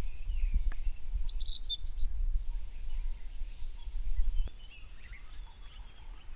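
Birds chirping in short, high calls, clearest about one and a half to two seconds in, over a low rumble.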